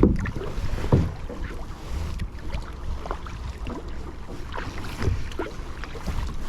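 Kayak paddle dipping and splashing in the water in irregular strokes, the strongest about a second in, over a low rumble of wind on the microphone.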